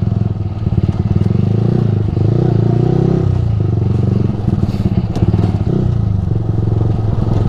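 Yamaha R15 V3's single-cylinder engine running through a Ronin Musashi aftermarket exhaust while the bike is ridden, a steady rapid pulse at moderate revs that shifts in pitch a little around two to three seconds in.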